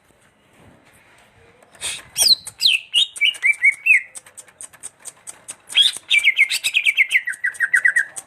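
Green leafbird (cucak hijau) singing: two phrases of quick notes, each stepping down in pitch, the first about two seconds in and the second near six seconds, with sharp ticks in between.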